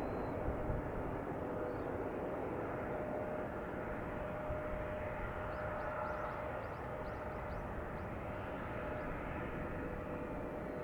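Jet engine noise of a Boeing 787-8 climbing away after takeoff: a steady rumble with a faint steady whine, slowly fading.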